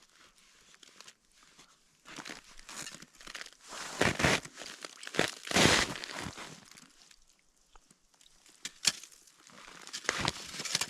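Snow and ice crunching and rustling in irregular bursts while someone works at an ice-fishing hole, with a couple of sharp clicks near the end.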